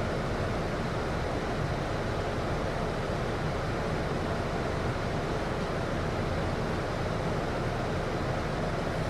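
A city bus's air conditioning blowing steadily inside the cabin: an even whoosh over a low rumble, with no change in level.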